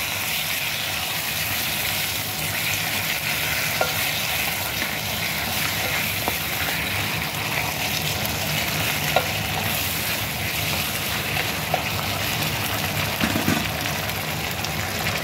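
Chicken pieces sizzling as they fry in a clay pot with a steady hiss. A spatula stirs them, with a few light clicks and scrapes against the pot.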